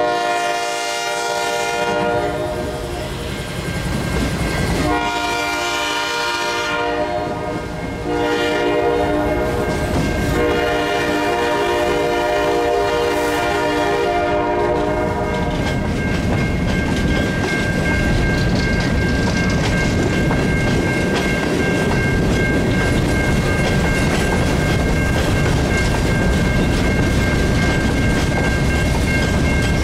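Empty coal hopper cars rolling past with a steady clickety-clack of wheels on rail, while the train's lead GE Dash 8 locomotive sounds its horn in four blasts, long, long, short, long: the grade-crossing signal. The horn ends about fifteen seconds in, and a steady high ringing tone then carries on over the wheel noise.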